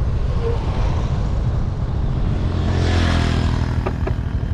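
A motor vehicle passing close by, its engine and road noise swelling to a peak about three seconds in and then easing off, with two short clicks near the end.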